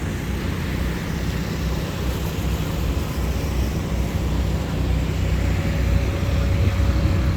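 Steady low rumble of street traffic, growing slightly louder toward the end.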